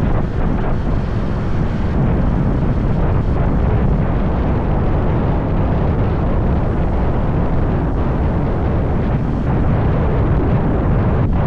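Steady wind buffeting the microphone of a motorbike in motion, mixed with the bike's running engine.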